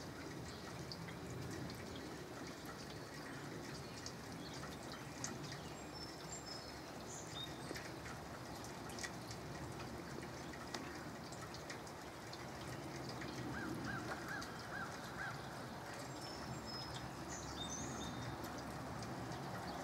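Light misty rain falling and dripping, a steady soft hiss with scattered small drips, while birds give a few short chirps and a brief series of calls about two-thirds of the way through.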